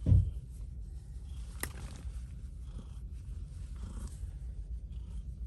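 Steady low rumble inside a car cabin, with a heavy dull thump right at the start and a single sharp click about a second and a half in.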